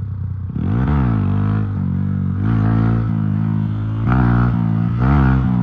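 Carburetted Honda CG 150 Titan's single-cylinder four-stroke engine, fitted with a performance camshaft and sport exhaust, running hard under way. The revs rise and drop back about a second in, and again after about four seconds.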